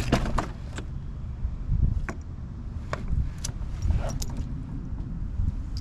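Irregular metallic clicks and clinks of hand tools and fittings being worked in a car's engine bay, over a low steady rumble.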